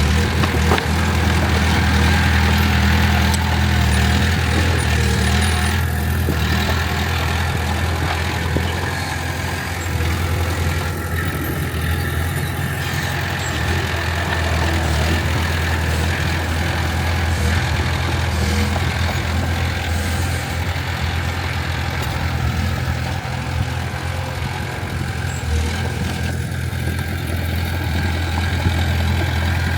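Heavy diesel engine of a bulldozer running steadily, a deep low hum that holds an even speed.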